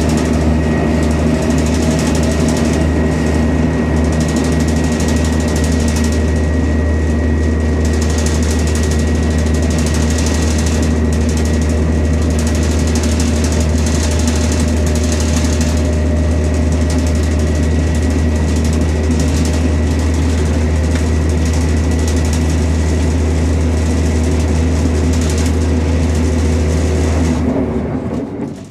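Interior running noise of a Chiltern Railways Class 168 diesel multiple unit at speed: a steady low engine drone with a rushing wheel and air noise over it. It fades out near the end.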